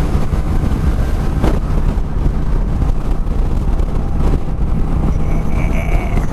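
Kawasaki Vulcan Classic 900's V-twin engine running steadily under way, with wind noise on the microphone.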